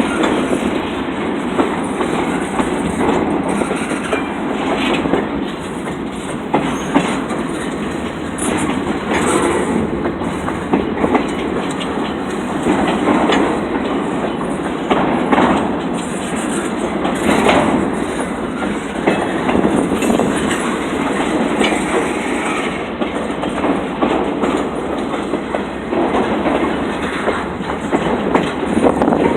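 Freight train cars rolling steadily past a crossing, their wheels clacking over the rail joints in a continuous run of irregular knocks.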